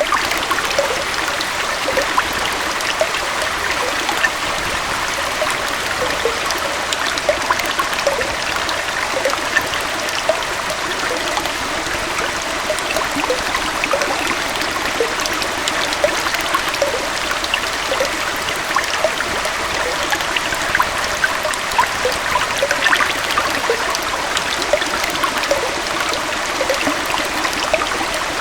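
Gentle forest waterfall and stream: a steady rush of water splashing over rocks, with many small bubbling splashes and little deep rumble.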